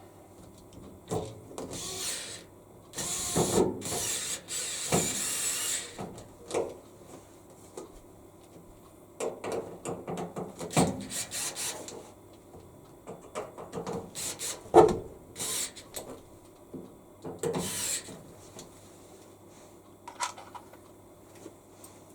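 Screws being driven into the plastic panel of a washing machine and the parts handled: irregular clicks, knocks and scraping, with a few longer rasping stretches in the first few seconds.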